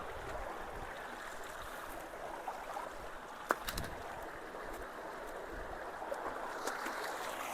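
Creek water rushing steadily through and below a low-water bridge's culverts, with one sharp click about three and a half seconds in.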